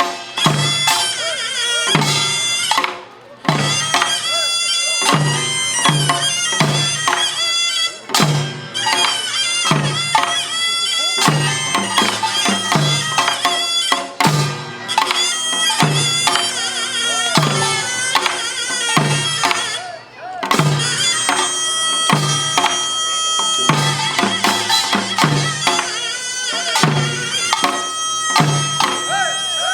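Korean pungmul folk band playing: a taepyeongso (Korean double-reed shawm) wails a bending melody over a steady beat of drums and gongs, with a few short breaks in the rhythm.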